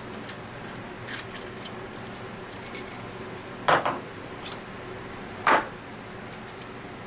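Small metal parts and hand tools being handled on a workbench: a run of light, ringing metallic clinks, then two louder short clatters about three and a half and five and a half seconds in.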